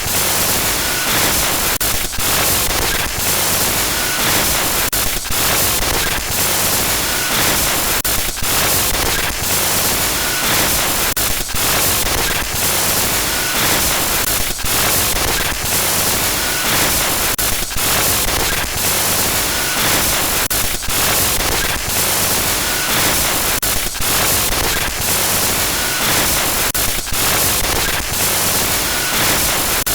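Glitch-noise sound effect: loud static hiss spread across the whole range, stuttering with brief dropouts several times a second.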